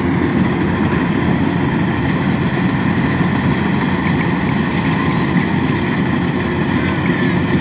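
A heavy farm machine's engine running steadily, mostly low-pitched and unbroken.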